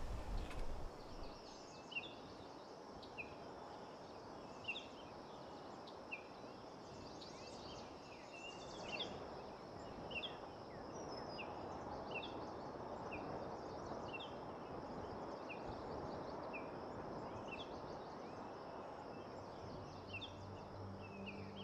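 Forest birds calling with short, repeated high chirps about once a second over a faint steady background hiss of forest ambience.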